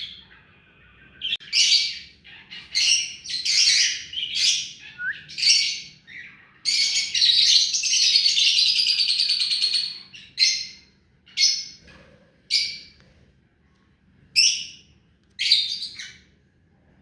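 Ringneck parrot (rose-ringed parakeet) calling: a run of short, high calls, one long call of about three seconds near the middle, then several more short calls about a second apart.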